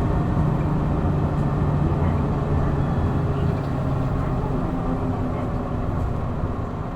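Hino Blue Ribbon city bus's diesel engine running under load, heard from inside the bus: a steady low drone for about four seconds, then easing off and a little quieter.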